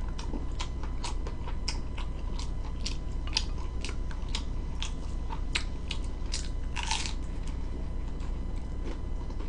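Close-up chewing and biting of food, with a sharp crunch about three times a second and one longer crunch about seven seconds in.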